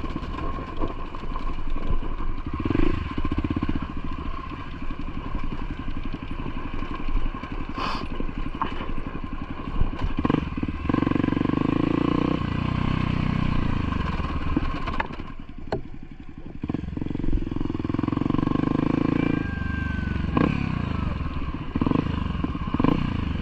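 Motorcycle engine running under way, its revs rising and falling, with occasional sharp knocks and clatter.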